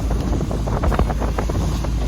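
Wind buffeting the microphone on a boat under way: a heavy, steady low rumble with short irregular rushes of noise over it.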